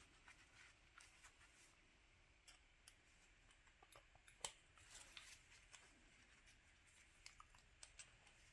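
Faint, scattered metal clicks and ticks of snap-ring pliers working at a snap ring inside a Bilstein shock absorber body, with one sharper click about four and a half seconds in.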